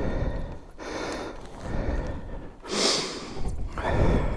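A person breathing hard from exertion after lifting a fallen motorcycle, heavy breaths about once a second, with one sharper hissing breath about three seconds in.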